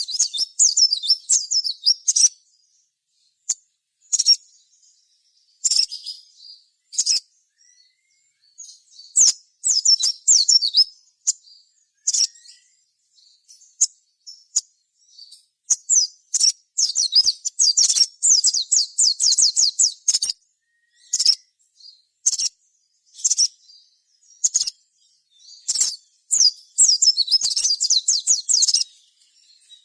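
A sogon (sogok ontong) sunbird singing in bursts of rapid, high, chattering trills, broken by short pauses, with longer runs in the middle and near the end.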